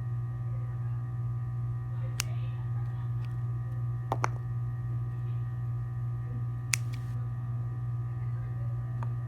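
Steady low electrical hum with a few faint higher tones, broken by five sharp, brief clicks: one about two seconds in, a close pair about four seconds in, one near seven seconds and one near the end.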